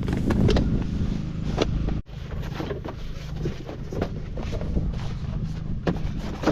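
Diesel tractor engine running steadily at idle, with scattered clicks and clanks from handling of the machine. The sound cuts out abruptly about two seconds in and picks up again a little quieter.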